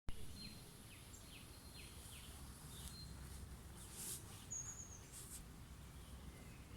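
Songbirds chirping outdoors: a run of short, quick downward chirps about two a second in the first couple of seconds, then a high trill about four and a half seconds in, over a low background rumble.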